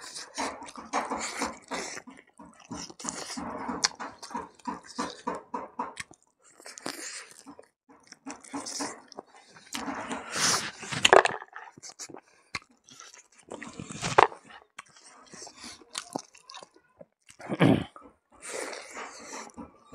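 Close-miked open-mouthed chewing and lip smacking of a man eating buffalo meat and rice by hand, in quick irregular strokes. There are a few louder sharp smacks a little past the middle and again near the end.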